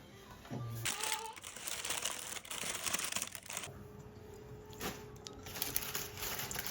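Crinkling of a thin material being handled, in two spells: a long one of about three seconds starting near the first second, and a shorter one near the end.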